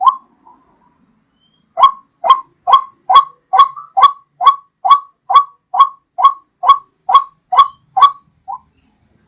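White-breasted waterhen (ruak-ruak) calling: a run of about fifteen short, slightly rising notes, about two a second, starting a couple of seconds in after a pause and ending with a weaker note near the end. It is a lure call used to attract the birds.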